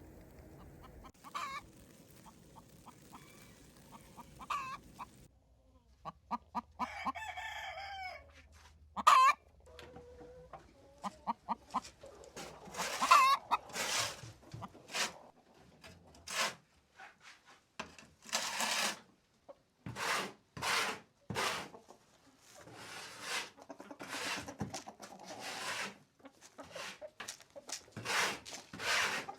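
Chickens clucking and calling. A long drawn-out call comes about seven seconds in, and many short, loud calls follow through the second half.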